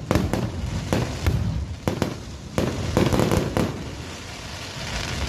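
Fireworks going off: a series of sharp bangs over a continuous rumble, easing off in the last second or so.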